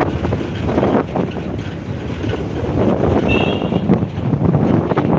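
Wind buffeting the microphone: a loud, rough, uneven rumble, with a brief high tone about three seconds in.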